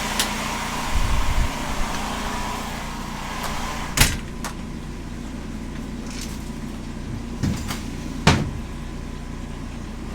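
A steady mechanical hum with a few sharp knocks, the loudest about four seconds in and another just past eight seconds.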